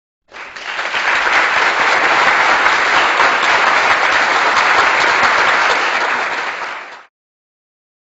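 Crowd applauding: a steady wash of many hands clapping that swells in at the start, holds for about six seconds and fades out shortly before the end.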